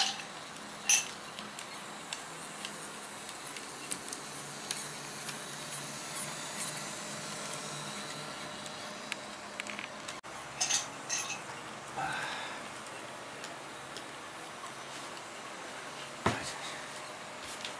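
HOm model train running on a layout: a faint motor hum with many small metallic ticks and clinks, and a few louder sharp clicks about a second in, around the middle and near the end.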